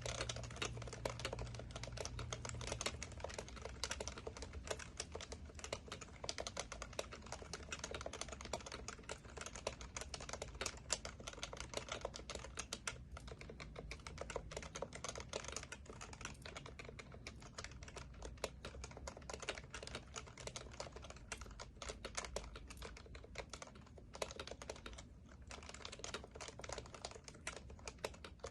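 Continuous fast typing on an HHKB Professional Classic keyboard with Topre capacitive switches: a dense run of key strokes that thins briefly about halfway through and again near the end.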